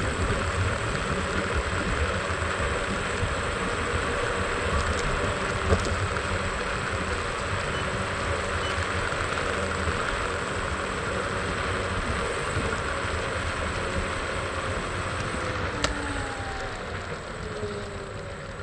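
Scooter ride through city traffic: a steady running engine and road noise. Near the end the engine pitch falls and the sound eases off, as the scooter slows down.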